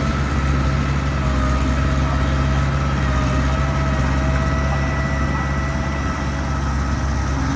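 Heavy diesel engine of earthmoving machinery running steadily, a deep low drone with a faint thin whine over it.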